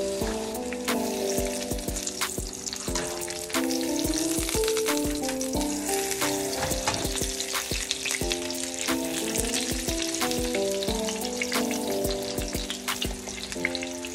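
Oil sizzling and crackling in a nonstick skillet as a batter-coated piece of meat fries, with many sharp pops. Background music plays over it.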